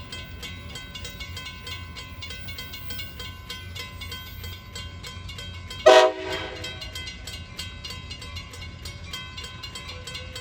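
A train horn gives one short, loud blast about six seconds in, over a steady, rapid metallic ringing.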